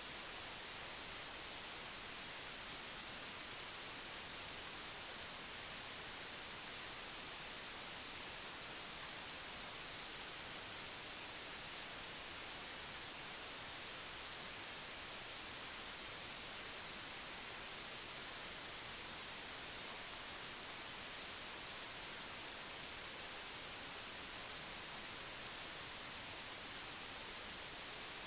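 Steady, even hiss like recording static, unchanging throughout, with nothing else standing out.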